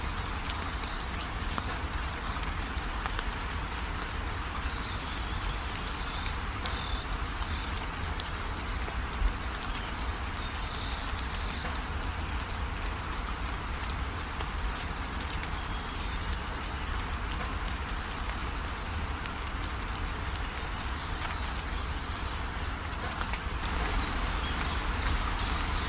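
Steady rain falling, with birds chirping on and off above it and one sharp tap about nine seconds in.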